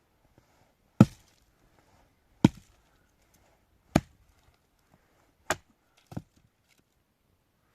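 Axe chopping wood: four evenly spaced strikes about a second and a half apart, then a quicker, lighter fifth strike near the end.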